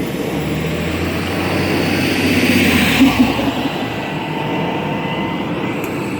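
Riding inside a 2011 New Flyer C40LF CNG city bus: steady engine and road noise that swells over the first three seconds, with a brief louder jolt about three seconds in, then settles back to a steady run.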